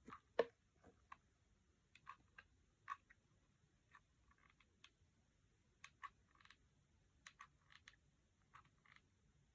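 Near silence with faint, scattered small clicks and taps, the loudest about half a second in.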